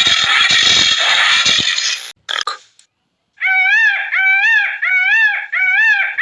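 Loud, even noise for about two seconds, then after a short pause a string of repeated animal calls, each one pitched and rising then falling, about one and a half a second.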